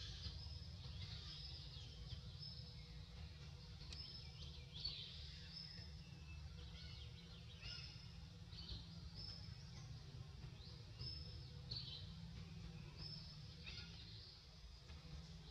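Faint, high-pitched bird chirps in short calls repeating every second or so, over a steady low background rumble.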